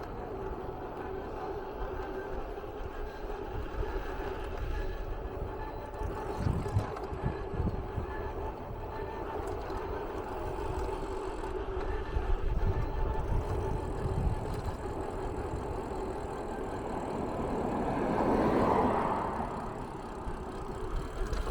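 A steady mechanical hum with a constant pitched tone over a low rumble, swelling louder briefly near the end.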